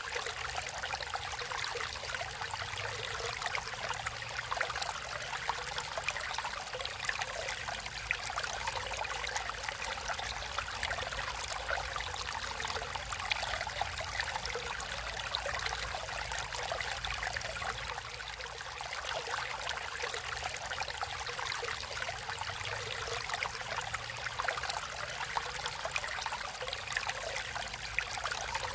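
Water flowing naturally in a stream: a steady, even rush with fine trickling and splashing.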